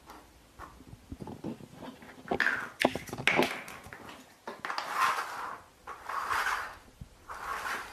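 Pet cat sounds: a scuffle of sharp clicks and knocks, then three hissy, unpitched noises about a second apart.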